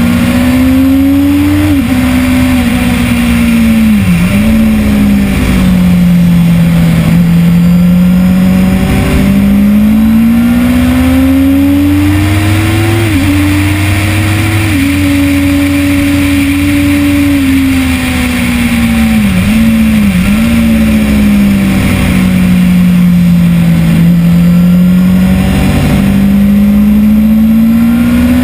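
2010 Kawasaki ZX-10R's inline-four engine at full pace on track, its pitch climbing through long pulls and easing off, with sudden sharp dips in pitch a few times: quick gear changes.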